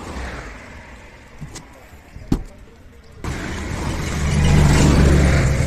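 A few sharp knocks as a hatchback's rear parcel shelf is handled and fitted in the boot. After about three seconds a car engine starts to be heard running steadily, growing louder toward the end.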